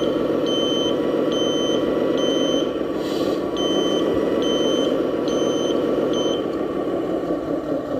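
RC Scania dump truck reversing, its beeper sounding a steady high beep a little more often than once a second over the running engine sound. There is a short hiss about three seconds in, and the beeping stops about six and a half seconds in.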